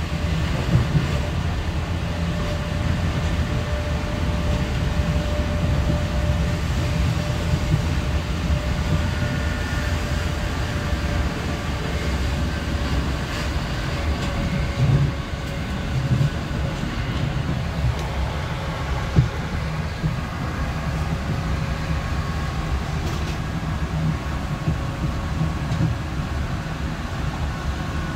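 Class 465 Networker electric multiple unit heard from inside the passenger saloon at speed: a steady rumble of wheels on rail with a steady whine from the traction motors. A few sharp knocks from the track come about halfway through.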